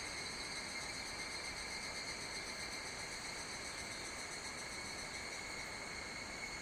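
A steady, unbroken chorus of summer insects, holding several high-pitched tones without pause.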